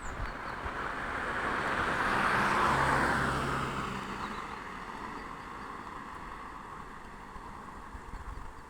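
A vehicle driving past: a swell of road and engine noise that builds to a peak about three seconds in, then slowly fades away.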